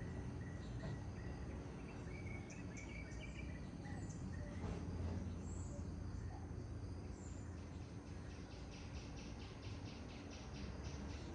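Small birds chirping and whistling in short calls over the steady low rush of a flowing forest river. About two-thirds of the way in, a rapid, evenly pulsed chirring trill of about six pulses a second starts up and carries on.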